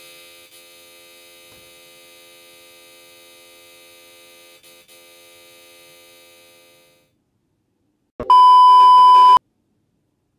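A steady held electronic chord for about seven seconds that fades out, then, after a short gap, a loud steady bleep of about a second, the kind used to censor a word.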